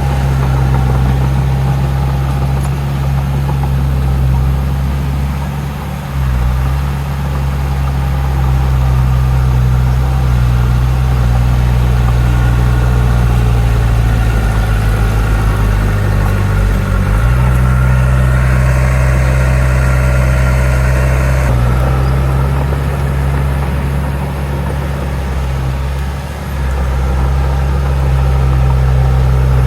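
Heavy diesel engine of an earthmoving machine running steadily with a deep, low note. The note dips about six seconds in and shifts in pitch in the middle as the load changes. A higher whine joins for a few seconds past the middle.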